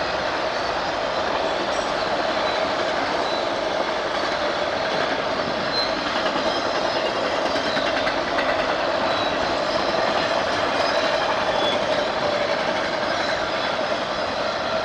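A train rolling past at a grade crossing: the steady noise of railcars on the rails, with faint high wheel squeals now and then.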